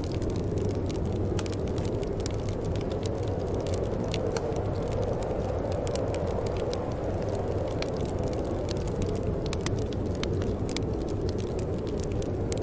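Steady low wind with a wood fire crackling over it, many small sharp pops scattered throughout.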